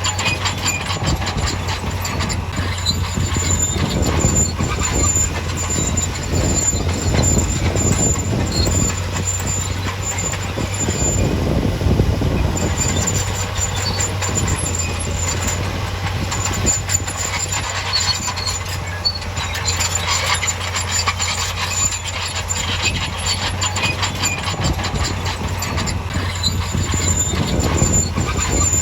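Bulldozer running, its steel crawler tracks clanking continuously and squealing on and off over a steady low diesel drone.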